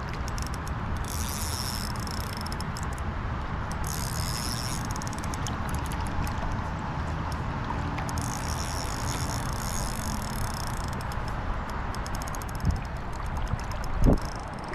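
Fishing reel being wound in short stretches, a fine rapid clicking, while a fish is fought on the line, over a steady rushing background. Two brief knocks near the end.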